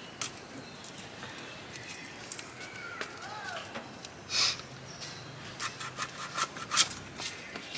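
Scattered scrapes, rubs and clicks of objects being handled, with one louder scrape about four and a half seconds in.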